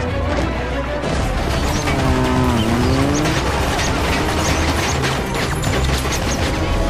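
Action-scene soundtrack: score music under a rapid run of sharp hits, with a pitched sound that dips and then rises about two seconds in.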